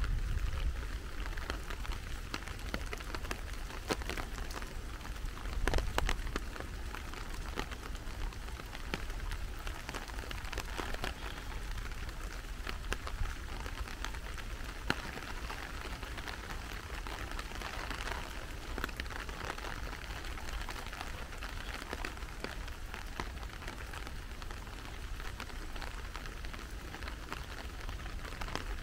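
Steady rain falling, a dense patter of drops. A few low bumps stand out, the loudest about six seconds in.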